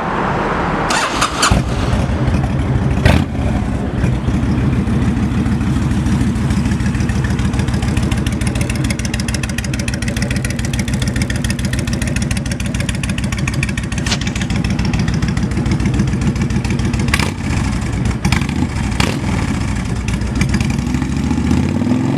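2006 Honda VTX 1300C's V-twin engine with aftermarket Cobra exhaust starting about a second in, then idling with an even, pulsing beat and a rise in revs near the end.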